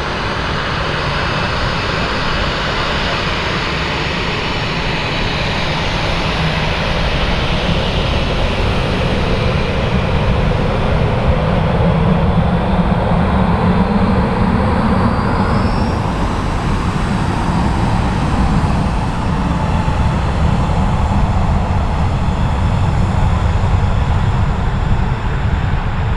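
Jet engines of a Boeing 737-800, its CFM56-7B turbofans giving a steady rushing noise that grows somewhat louder through the middle, with a short rising whine about 15 seconds in.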